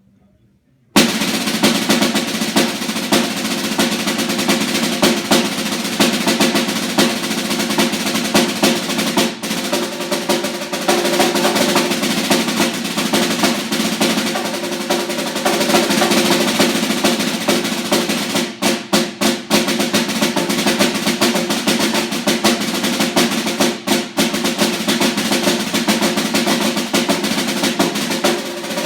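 Snare drum solo: rapid, dense rolls and stick strokes that start abruptly about a second in and run on almost without pause, broken by a few brief gaps between accented strokes about two-thirds through.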